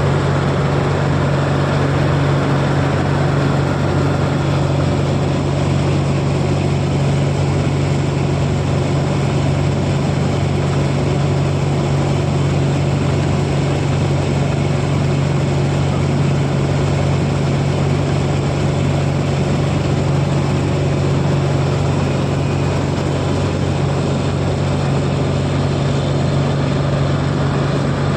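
Heavy farm machine's diesel engine running steadily at constant speed: a deep, unchanging drone.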